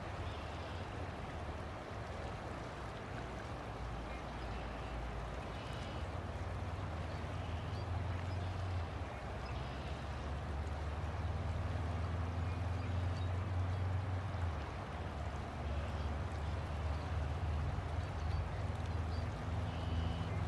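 River water flowing: a steady rush with a low rumble underneath that grows louder about halfway through.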